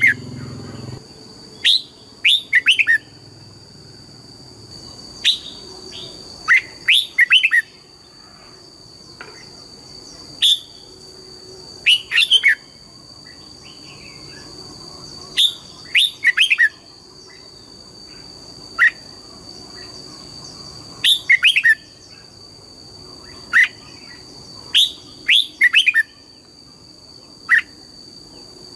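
Red-whiskered bulbul singing: short phrases of a few quick, falling whistled notes, repeated every one to three seconds.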